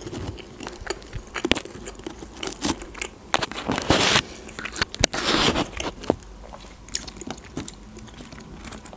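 Close-miked chewing of crispy breaded onion rings: crunching and wet mouth clicks, with two louder spells of crunching about four and five seconds in.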